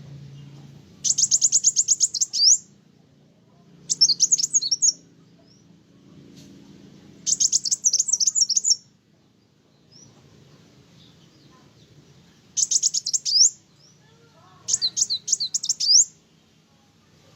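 Sunbird (kolibri wulung) singing: five loud bursts of rapid, high trilling chatter, each about a second and a half long, over a faint low hum.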